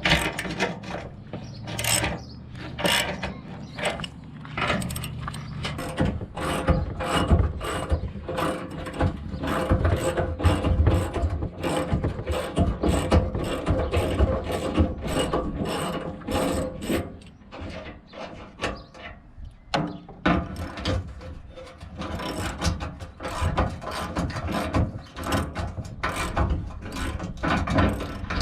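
Workshop noise of metal parts and hand tools being worked: rapid, irregular clicks and clanks over a low hum.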